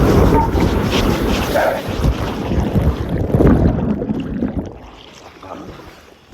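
Wind rushing hard over the microphone with running water during a fast plunge down a steep speed water slide, dying down sharply about four seconds in.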